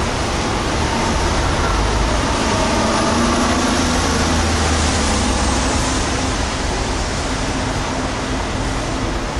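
Road traffic noise with a steady rumble and hiss, swelling about two to six seconds in as a vehicle goes by.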